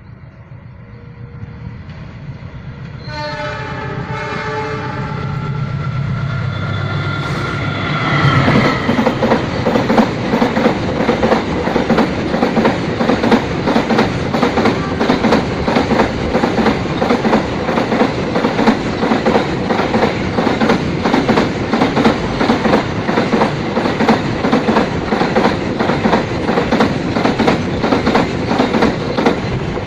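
Freight train approaching and passing close by: the locomotive's horn sounds for about five seconds over a building engine rumble, then from about eight seconds in the locomotive and wagons go past with loud, rapid wheel clatter over the rail joints.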